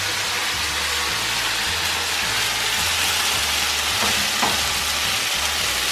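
Chicken in sauce sizzling and spattering steadily in a hot frying pan.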